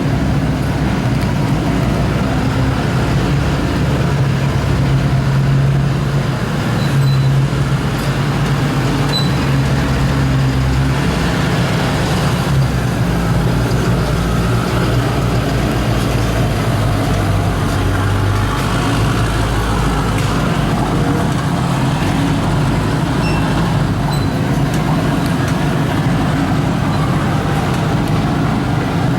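Monster truck engine running loud, its pitch shifting up and down several times as the throttle changes.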